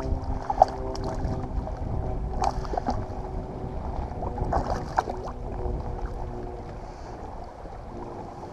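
Wind and water noise around a fishing kayak, a steady low rumble with a few light knocks. A faint steady hum with several tones fades out a few seconds in.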